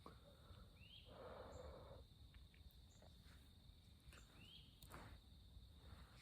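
Faint night chorus of spring peeper frogs: a steady high trill-like hum with two single rising peeps, one about a second in and one past the middle. A soft rushing noise swells for about a second near the start.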